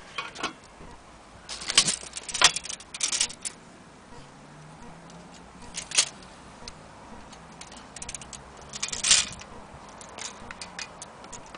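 Light metallic clinking and rattling from an antique gilt-cased mantel clock being handled, in uneven bursts with the loudest about two, six and nine seconds in.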